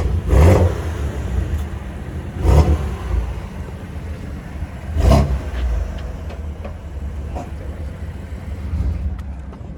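A car engine revving in three short blips, about two and a half seconds apart, over a steady low rumble.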